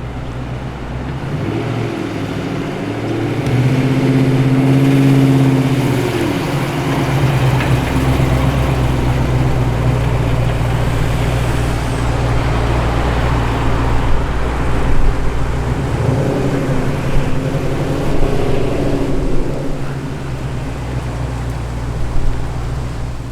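Muscle car engines running at low speed as the cars roll slowly past one after another, a steady low engine note that swells and eases as each car passes, loudest about five seconds in.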